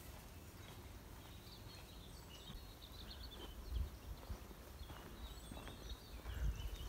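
Small birds chirping, with many short high calls in quick runs, over a low steady rumble; two dull bumps come about four seconds in and near the end.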